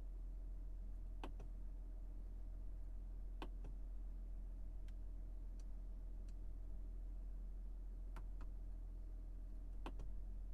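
Steady low hum with faint, sharp ticks every second or two at uneven intervals.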